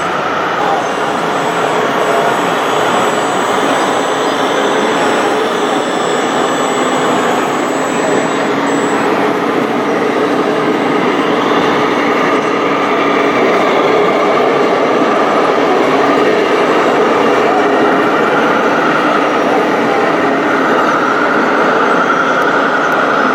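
Radio-controlled model machinery running: a steady mechanical noise from small electric motors and a hydraulic pump, with a whine that rises and falls in pitch.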